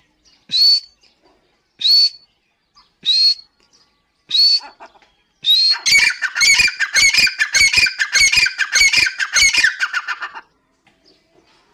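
Dakhni teetar (grey francolin) male and female calling. Single sharp rising notes come about once a second, then about halfway a fast rhythmic run of repeated notes, four to five a second, goes on for some four seconds and stops abruptly.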